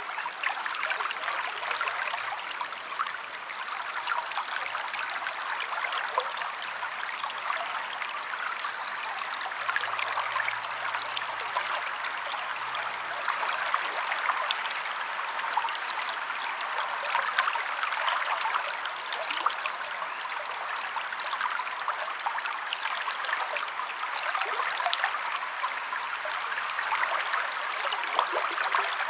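River water flowing and splashing over rocks, a steady rush full of small splashes. A few faint, short, high bird trills come through now and then.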